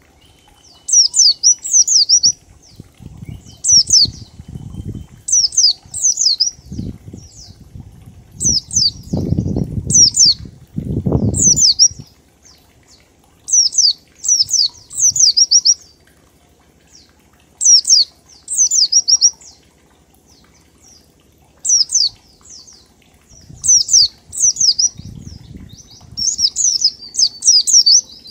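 White-eye (pleci) singing in the 'ngalas' style: short groups of two to four high, quickly falling notes, repeated every second or so with brief pauses. Low rustling sounds come in a few times, loudest around the middle.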